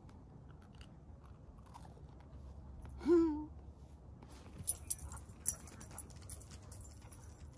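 A falafel being bitten and chewed close to the microphone, with sharp crunches a little past halfway. About three seconds in there is a short rising vocal call, the loudest sound.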